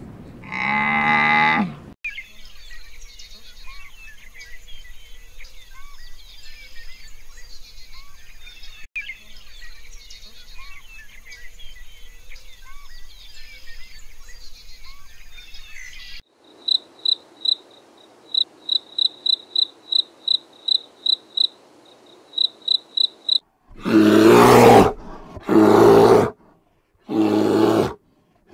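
A string of animal calls. It opens with one short, loud, low call, then a long, faint bed of small chirps. A high chirp follows, repeating about three times a second, and near the end come three loud calls, each about a second long.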